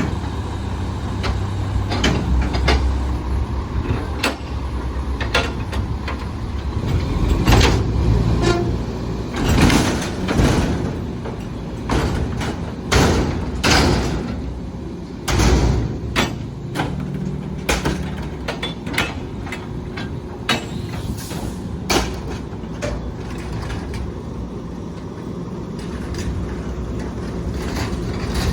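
Volvo Xpeditor Heil PowerTrak rear-loader garbage truck working on a trash collection, its engine running under many sharp metal bangs, clanks and knocks, densest and loudest in the middle.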